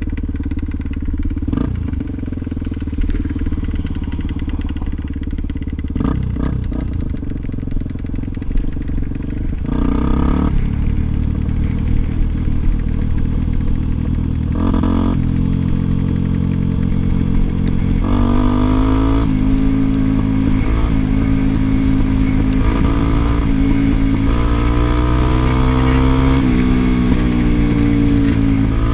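Motorcycle engine running under load as it is ridden, its pitch rising and falling with the throttle and gear changes, getting louder and busier about a third of the way through.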